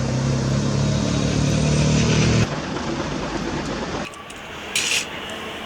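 An engine-like running sound, a steady pitched hum with a rapid low pulsing, for about two and a half seconds, then it cuts down to a quieter rushing noise that fades further near the end.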